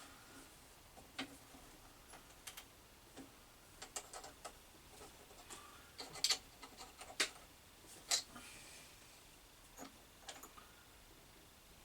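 Scattered small clicks and taps of metal tools and parts being handled at a metal lathe, with no motor running; the loudest come about six to eight seconds in.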